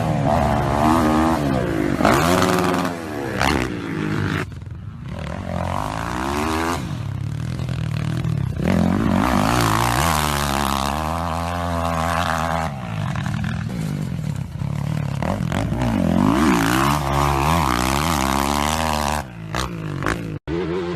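Several motocross bikes racing, their engines revving with pitch rising and falling over and over, more than one at once. The sound cuts out briefly near the end.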